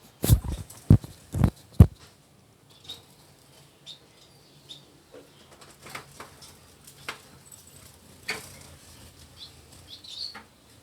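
Small cage birds fluttering, with four loud wing-flap thumps in the first two seconds, then scattered light flutters and faint high chirps.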